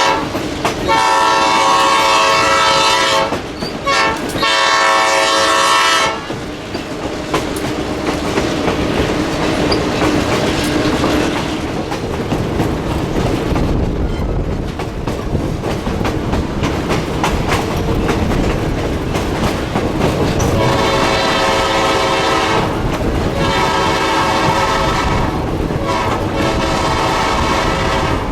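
Locomotive horn sounding two long blasts. The train then rolls by, with wheels clicking over the rail joints. Three more long horn blasts follow in the second half.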